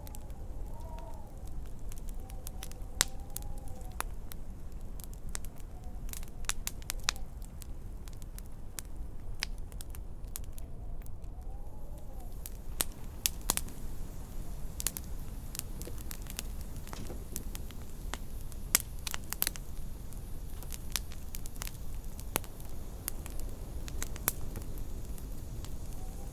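Wood fire crackling with irregular sharp pops, over a steady low rumble of wind. A faint wind whistle rises and falls near the start and again around the middle.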